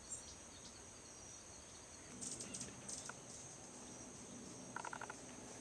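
Steady high-pitched insect drone of cricket or cicada type, with a few short bird chirps about two seconds in and again near the end.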